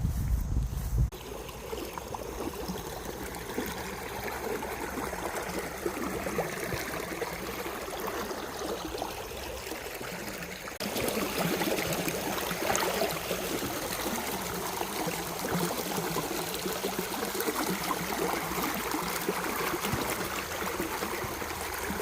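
Flowing water, a stream running steadily, growing louder about halfway through.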